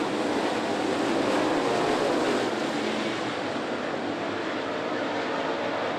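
Dirt late model race cars' V8 engines running hard as the field circles the dirt track, a steady blended engine noise with a few faint pitch lines, easing a little in the second half.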